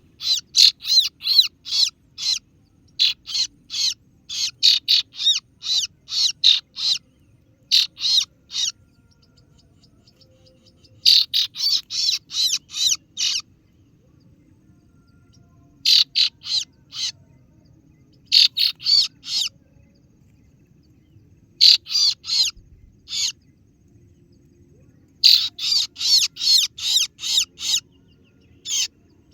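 Kaso-kaso bird lure call: a series of sharp, high 'ciet ciet' chirps, about three to four a second, in bouts of a few seconds with short pauses between them. It is the call used to draw in rival birds.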